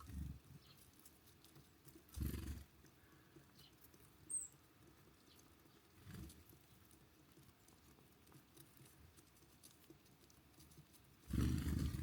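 Small birds at a feeder: a few dull thumps and rustles, the longest near the end, and one short high chirp about four seconds in.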